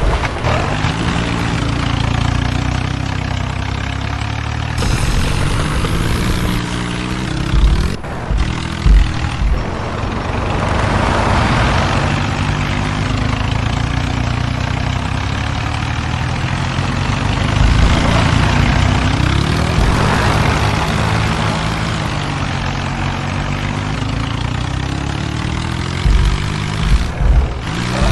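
John Deere and New Holland tractors' diesel engines running hard under load in a tug-of-war, their pitch rising and falling as they are throttled. Several low thumps stand out, a couple near the middle and a few near the end.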